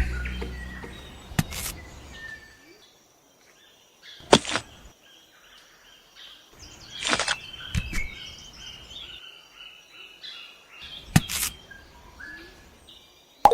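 Birds chirping in the background, broken by about five short, sharp swishing noises spread through the stretch.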